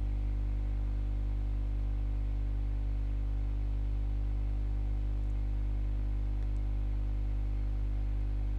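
Steady electrical mains hum, an unchanging low drone with a ladder of overtones above it.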